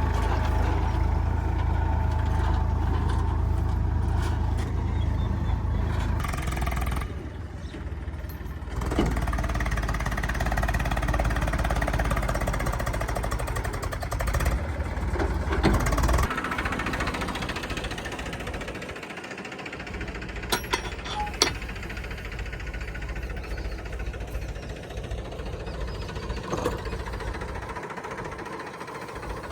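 Heavy diesel machinery engine running with a knocking clatter, loud for the first sixteen seconds or so, then quieter. A few sharp clicks come around twenty seconds in.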